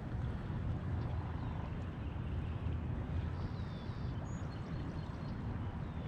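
Outdoor river ambience: a steady low rumble with a few faint, brief bird chirps now and then.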